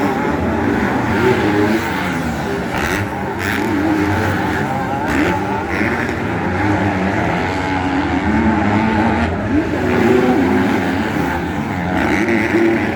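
Several motocross bikes racing on a dirt track, their engines revving up and down with overlapping pitches as the riders accelerate and back off.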